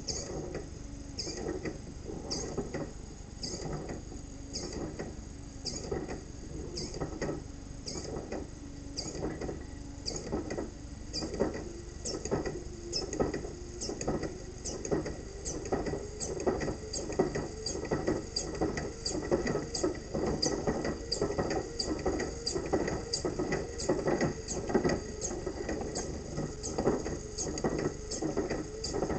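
Solenoid of a 3D-printed pulse-propulsion device clicking in a steady repeating beat, about one and a half pulses a second, each pulse jolting the device and its stack of bolts into a short rattle against the table.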